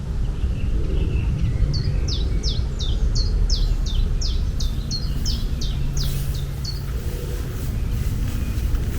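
A bird calling in a quick series of about a dozen short, falling chirps, roughly two to three a second, over a steady low rumble.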